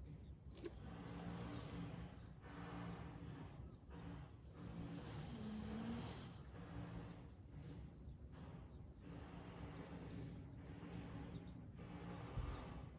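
Wood fire burning in a rusted can: a soft, continuous rush of flame with scattered faint crackles, and small birds chirping faintly in the background.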